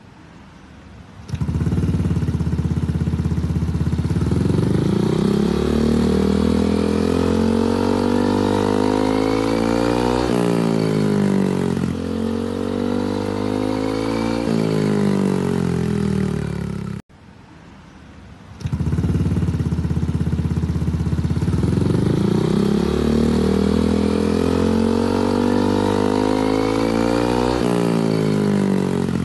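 Yamaha Aerox 155 scooter's single-cylinder engine running through an aftermarket racing exhaust, revved up and down several times. The sound comes in about a second in, cuts out briefly after about 17 seconds, and resumes with the same revving.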